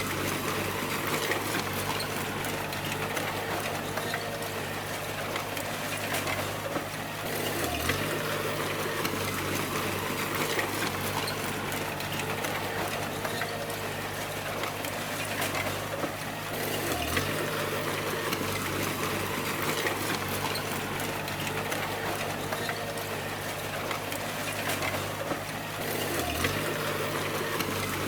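Bulldozer diesel engine running steadily under load, with a rattle of clicks over it; the engine note dips briefly three times, about every nine seconds.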